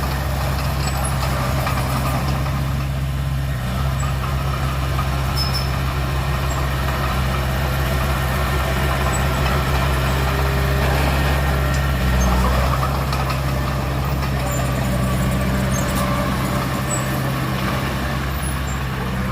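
Heavy diesel engine of earthmoving equipment running steadily at a constant speed, its low drone shifting briefly about two-thirds of the way through.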